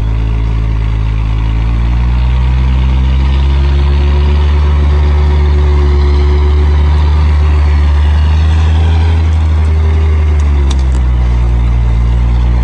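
Logging truck's heavy diesel engine working under load. The pitch rises about two seconds in, holds there, and drops back near the end.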